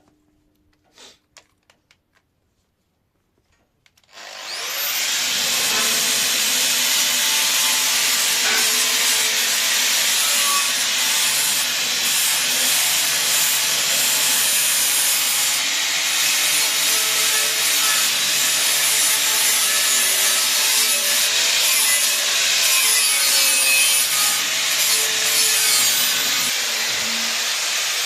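A few faint clicks, then about four seconds in a power tool spins up and cuts steadily and loudly into the steel of a gas cylinder, most likely an angle grinder with a cutting disc.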